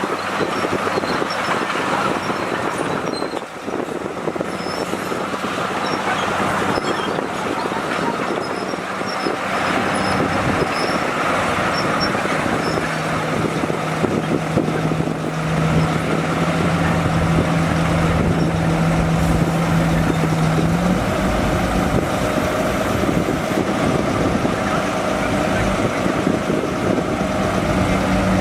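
Heavy earthmoving equipment's diesel engine running steadily under work. A steady hum joins it about halfway through and stops near two-thirds of the way.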